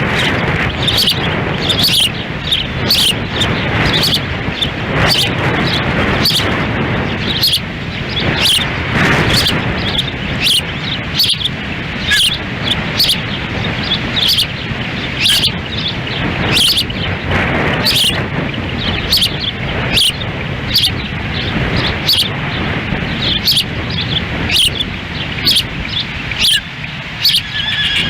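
Ospreys giving short, sharp chirping calls over and over, about one a second, over steady wind rushing on the nest-cam microphone.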